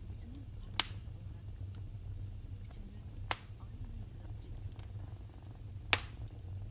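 Wood fire burning in a fireplace, with a steady low rumble and three sharp crackling pops a few seconds apart.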